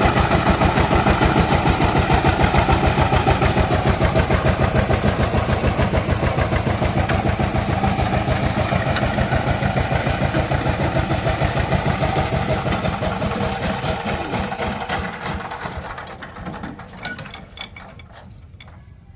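Diesel engine running with a fast, even beat, which slows and dies away over the last few seconds as the engine runs down and stops.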